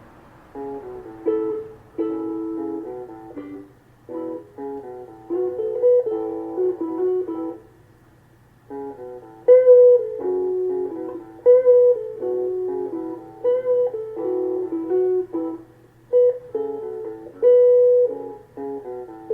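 Harley Benton HB35plus semi-hollow electric guitar played through a Yamaha THR10 amp, picking a single-note melody in short phrases with brief pauses between them.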